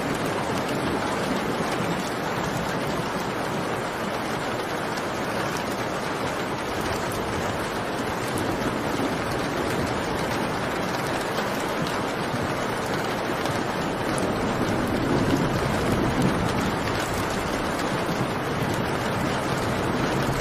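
Steady rainfall: an even, continuous hiss of rain, swelling slightly about three-quarters of the way through.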